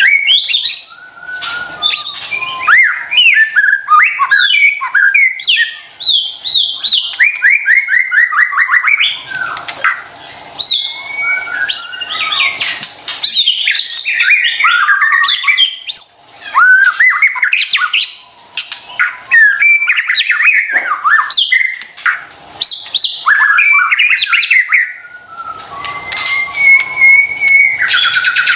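White-rumped shama (murai batu) singing a loud, varied song of quick whistled notes, sliding phrases and harsh chattering rattles, in bursts separated by short pauses, ending on a long held whistle near the end.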